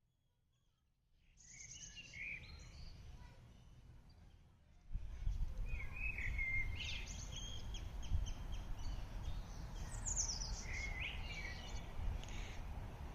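Songbirds chirping and singing in short repeated phrases over a low background rumble, which grows louder about five seconds in. The song starts about a second in, after near silence.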